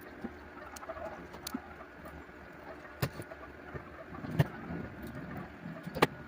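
Scattered sharp clicks and taps over a steady low hum, the loudest about four and a half seconds in and again near six seconds.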